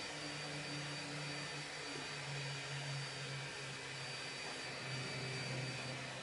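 Jet airplane engines: a steady roar with a thin, high whine over a low hum that shifts slightly in pitch.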